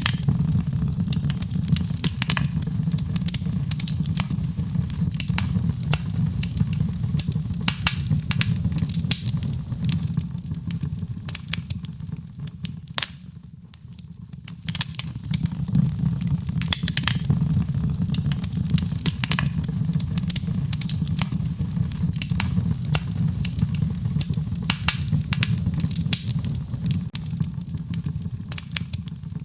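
Fireplace fire crackling and popping over a steady low rumble. The pops ease off briefly about halfway through, then pick up again.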